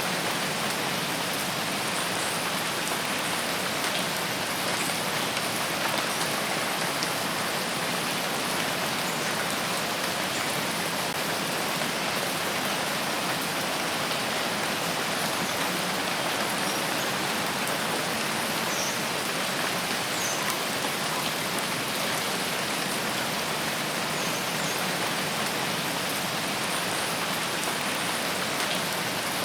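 Steady rainfall in a forest: an even, unbroken hiss of falling drops.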